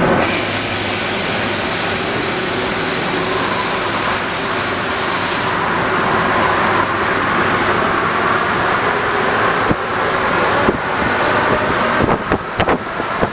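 Rubber-tyred NS-74 metro train running, a steady loud rumble and rush. A loud hiss starts and stops abruptly over the first five and a half seconds, and a few sharp clicks or knocks come near the end.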